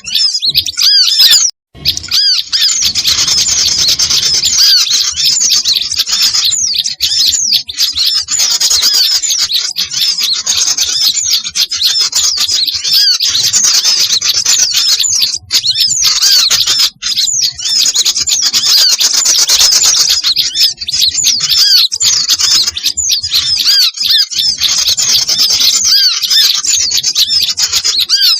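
Dense, loud chorus of many small songbirds chirping and calling over one another without pause, with a brief break about a second and a half in. It is a bird-lure recording of small birds' agitated chatter, made to draw other small birds in.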